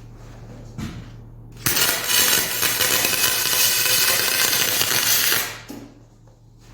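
Aluminum MIG weld run with a spool gun on a Miller 252 welder: the arc hisses and crackles steadily for about four seconds, starting suddenly and then dying away. A short click comes just before it.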